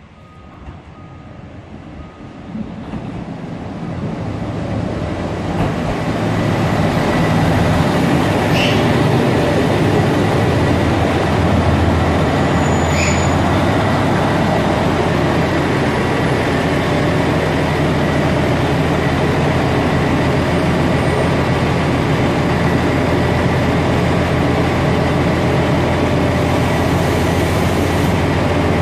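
Diesel limited express train pulling in alongside a platform. The noise swells over the first several seconds as it approaches, then stays loud and steady with a low engine drone as the cars pass and come to a stand. Two brief high squeals come near the middle.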